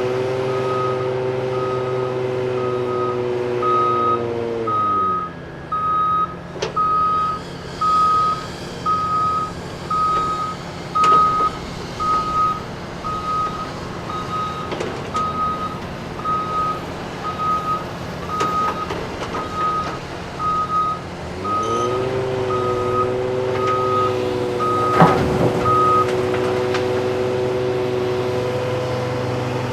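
Haul truck backup alarm beeping steadily, about once every 0.8 s, over a diesel engine, and stopping near the end. The engine drops to a low idle about five seconds in, then revs back up shortly before the beeping ends, with a short sharp knock just before it stops.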